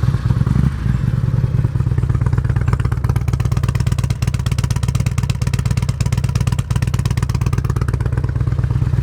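2005 Harley-Davidson Road King Classic's Twin Cam 88 V-twin idling steadily through a pair of Bub's aftermarket exhaust pipes, having just been started.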